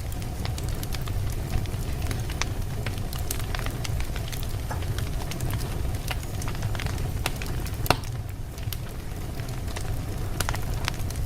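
Wood fire burning in a fireplace: a steady low rumble of flames with irregular sharp crackles and pops from the burning logs, one louder pop about eight seconds in.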